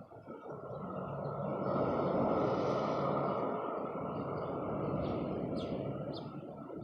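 A passing vehicle: its rushing noise swells to a peak about two seconds in, then fades slowly. A few small birds chirp faintly near the end.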